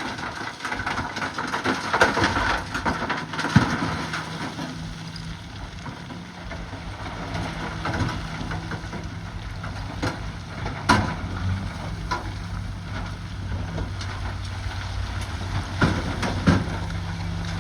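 Bulldozer diesel engine running steadily under load while its blade pushes rock. Crunching of stone comes first, and then sharp knocks of rock on rock or steel about three times.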